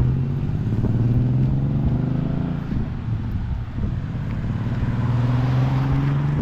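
A motor vehicle's engine running continuously, its pitch slowly rising and falling, over a steady rushing noise.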